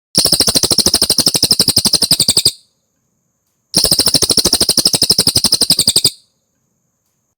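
Cililin bird song: two rapid, rattling trills of about two and a half seconds each, roughly seventeen notes a second, with a pause of just over a second between them.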